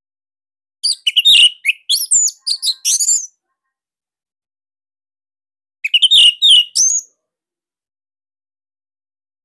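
Orange-headed thrush singing two bursts of quick, varied whistled phrases, the first lasting about two seconds and the second about a second, with a pause between.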